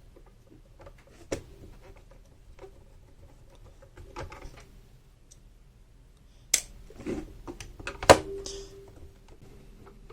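A few sharp clicks and light knocks of a screwdriver and small screws on a plastic sewing machine casing as the screws are taken out. The loudest click comes about eight seconds in.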